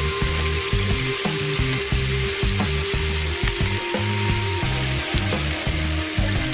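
Duck pieces with lemongrass and chilies sizzling hard as they stir-fry in a hot wok, a steady hiss throughout. Background music with a low repeating bass line plays underneath.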